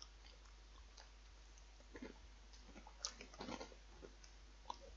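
Faint chewing of a crunchy puffed potato snack, with a few soft crunches about two seconds in and again around three seconds in.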